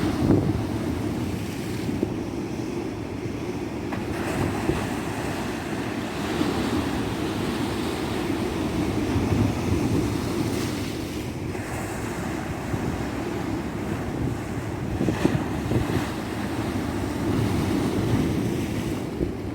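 Surf breaking on a tropical beach: a continuous wash of waves that swells and eases every few seconds, with wind buffeting the microphone.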